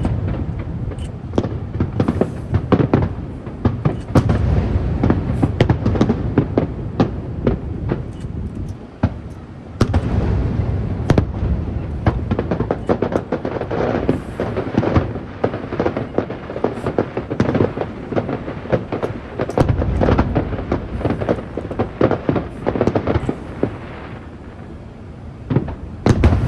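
Fireworks display: a dense, continuous barrage of booming shell bursts and sharp crackling, with a brief lull about nine seconds in and a quieter stretch near the end.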